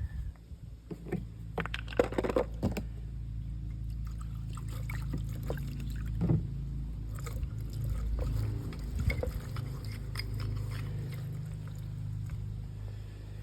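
Light clicks and scrapes of small parts being handled, the busiest about one to three seconds in, over a steady low hum.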